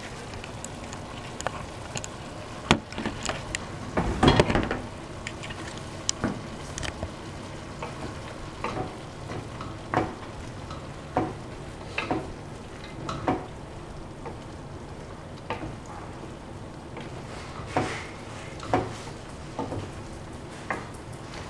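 Food sizzling in a frying pan while a utensil stirs it and knocks against the pan, giving a dozen or so sharp clicks and scrapes over the steady sizzle. The loudest clatter comes about four seconds in.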